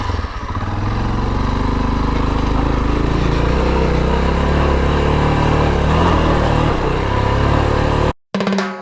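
Motorcycle engine running steadily just after being started. It cuts off abruptly about eight seconds in, and a drum beat starts right after.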